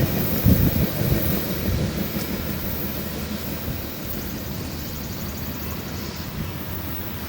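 A train rolling past on the main line, with wheel knocks on the rail in the first second, then its rumble fading away as it recedes.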